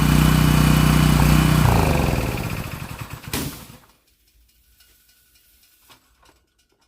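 Small lawnmower engine running steadily, then shutting off: it slows and winds down over a second or two, with a single sharp pop about three seconds in. A few faint ticks follow.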